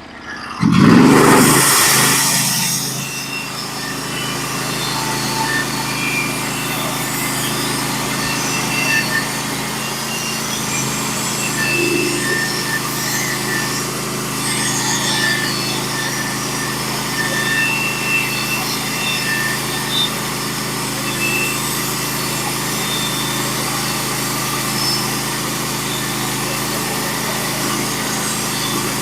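Norwood HD36v2 bandsaw mill's engine revving up about a second in, then running steadily under load as the band blade cuts a board through a pitch pine log.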